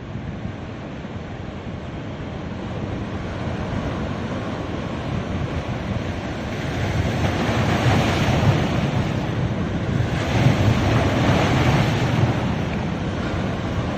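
Ocean surf breaking and washing up a beach, a continuous rush that swells louder twice in the second half as waves come in, with wind buffeting the microphone.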